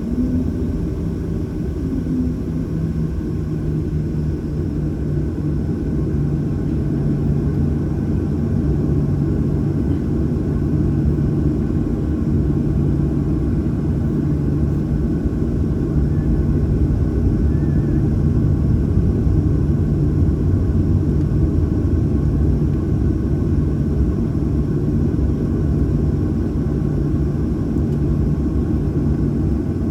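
Cabin noise inside a Boeing 737-800: a steady low rumble from its CFM56 jet engines and airframe, with a low hum that holds steady.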